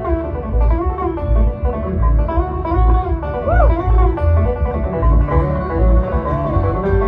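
Bluegrass band playing live, with banjo picking to the fore over guitar, a steady bass beat about twice a second, and sliding notes above.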